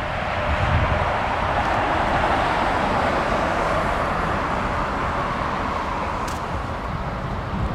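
Jet airliner engines at take-off power: a steady rushing rumble with no clear tone, swelling about a second in and then slowly easing off.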